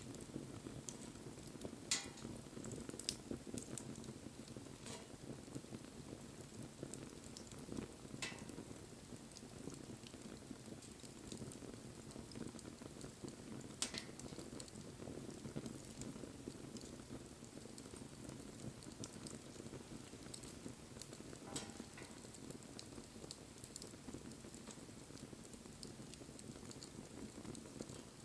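Wood fire burning with a steady low rush of flames and a handful of sharp pops and cracks from the burning wood.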